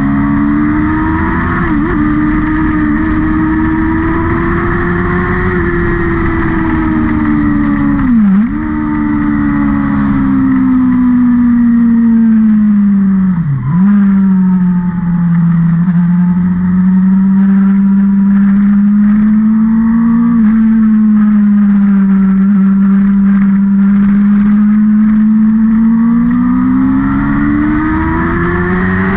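Racing vehicle's engine running hard around a circuit, its pitch rising and falling gently with the track, with two brief sharp dips in revs, about eight and thirteen seconds in.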